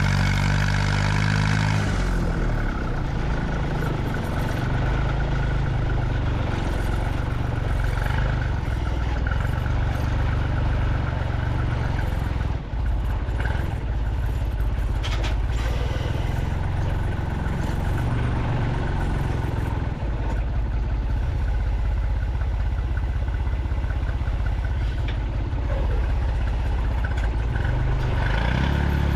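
Vehicle engine running steadily with a low drone, its pitch shifting a few times as it is throttled up and down.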